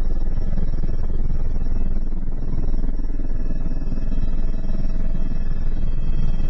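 Helicopter running in flight: a loud, steady rumble with thin, steady whining tones above it.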